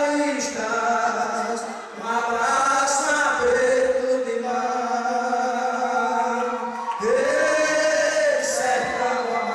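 A group of voices singing a sertanejo vaqueiro toada in long held phrases, with a brief pause about two seconds in and a new phrase beginning about seven seconds in.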